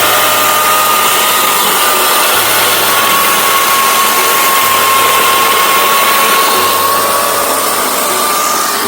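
Engine chainsaw running steadily at high speed while sawing firewood, a held whine that sags slightly in pitch midway as the chain is loaded in the cut.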